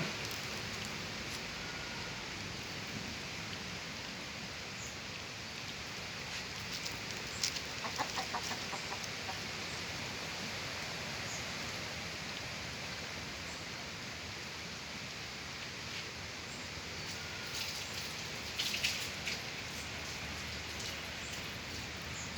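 Steady hiss like rain, with a few short runs of quick bird calls, one about a third of the way in and another near the end.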